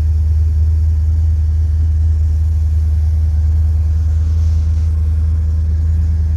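A 1968 Chrysler 300's 440 big-block V8 idling steadily after a cold start, a deep, even low rumble with no revving.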